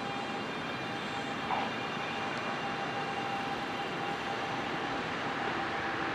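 Electric commuter train running slowly, a steady whine over even running noise, with a single click about one and a half seconds in.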